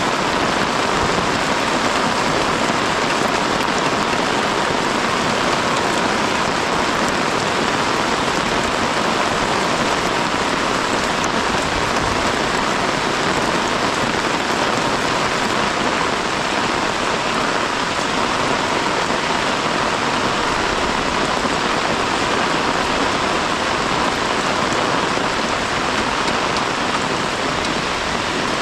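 Heavy rain falling steadily: an even, continuous hiss with no breaks or changes.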